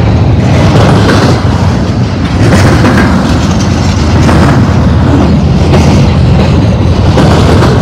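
Double-stack intermodal freight train's well cars rolling past close by: a loud, steady rumble of steel wheels on rail with clacks about once a second.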